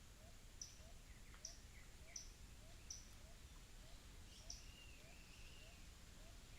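Faint outdoor nature ambience with birds calling: sharp, high, falling notes repeated about every three-quarters of a second, over a soft low rising note repeated about twice a second. A short warbling call comes in a little past the middle, over a steady low rumble.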